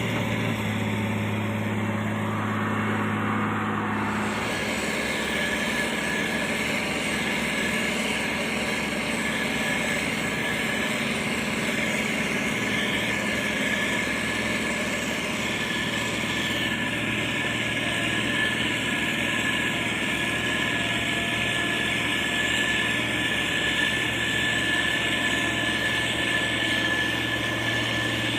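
Diesel engine of heavy road-building machinery running steadily, with a steady high whine over it. The low engine hum drops away about four seconds in and comes back near the end.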